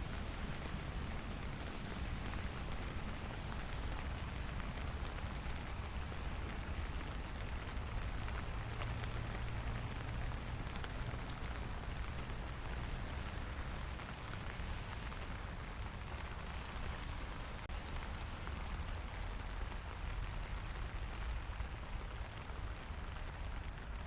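Steady light rain pattering on a city street, with a low rumble underneath.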